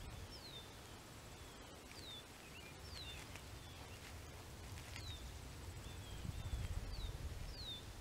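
A songbird repeating short, clear whistled notes that slide downward, about seven times at uneven spacing, over a low, uneven rumble of wind.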